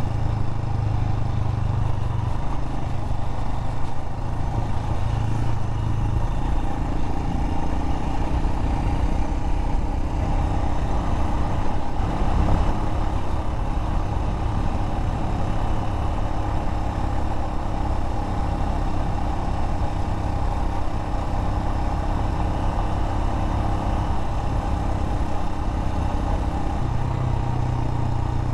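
Royal Enfield Himalayan's single-cylinder engine running steadily under way on a dirt mountain road. Its low note drops about six seconds in and picks back up near the end, over a steady rush of noise.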